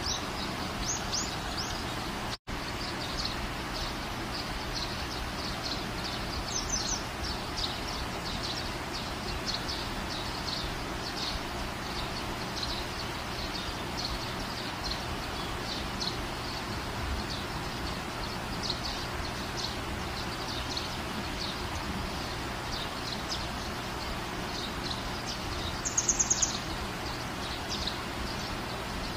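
Steady outdoor background noise with small birds chirping over and over in short, high notes, and a quick flurry of louder chirps near the end.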